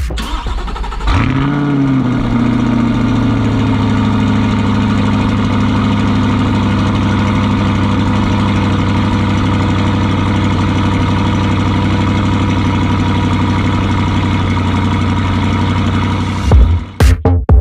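Chevrolet Corvette C8 Stingray's 6.2-litre LT2 V8 starting up about a second in with a quick rev flare, heard at the exhaust tips. It then settles into a steady idle that runs until a cut near the end.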